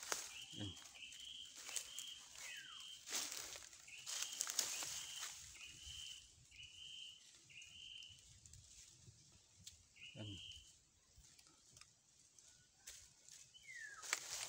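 A bird calling a run of short, evenly spaced high notes, about three every two seconds, that stops after about eight seconds and comes once more a little later. Under it, footsteps and rustling in dry leaf litter and palm fronds, loudest in the first few seconds.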